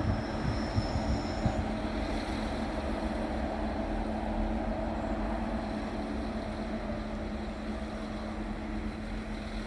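A train running at the station: a steady rumble with a constant hum, a few low knocks in the first second or so, slowly getting quieter.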